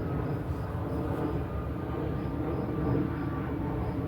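Airplane flying overhead, a steady low drone with a slowly wavering pitch.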